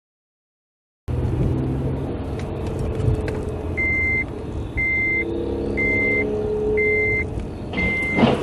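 Vehicle engine and road noise, then from about four seconds in an electronic warning beeper sounds a steady high beep about once a second, five times. A short loud thump near the end.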